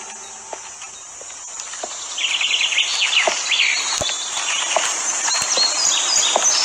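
Small birds chirping and twittering in quick runs of short notes, starting about two seconds in, with a few light knocks among them.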